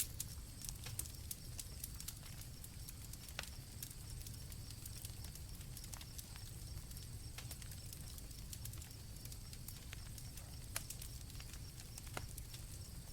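Campfire crackling, with irregular sharp pops over a low steady rumble, and crickets trilling steadily and high.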